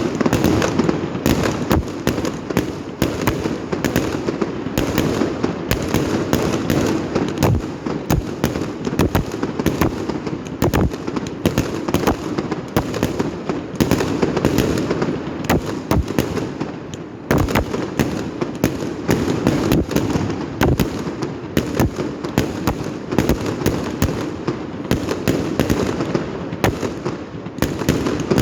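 Many fireworks going off at once: a dense, continuous crackle of bangs and pops over a steady rumble, with a brief lull about seventeen seconds in.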